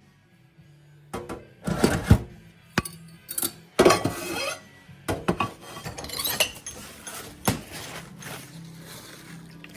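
Metal clinking and knocking at irregular intervals, from tools and parts being handled, with short scraping rustles between. Faint background music comes in near the end.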